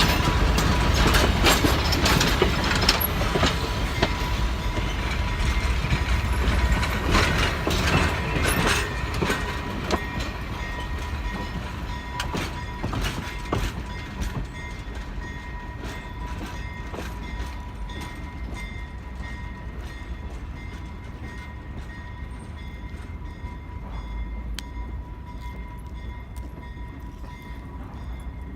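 Railroad cars shunted by a diesel switcher: a low engine rumble with dense wheel clatter and knocks, fading gradually after about ten seconds as the cars move away. A faint steady high tone runs underneath.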